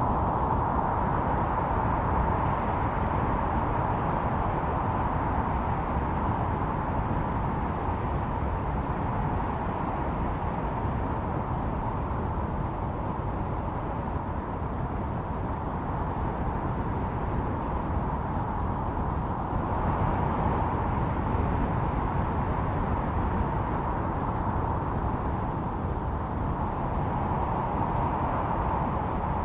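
Blizzard wind blowing steadily with a whistling tone, swelling and easing in slow gusts.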